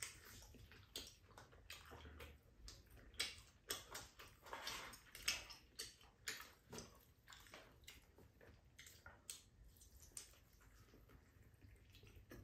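Faint, irregular mouth clicks and smacks of people chewing hotteok, thicker in the first half and thinning out later.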